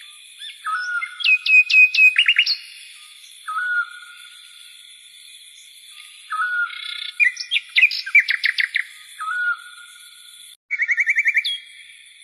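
Birds singing: a short whistled note repeated every two to three seconds, with bursts of fast, higher chirps and trills in between.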